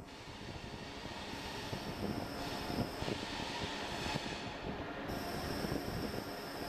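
Regional express train rolling slowly into a station as it brakes toward a stop, with steady running noise. About five seconds in, a steady high-pitched whine sets in and holds.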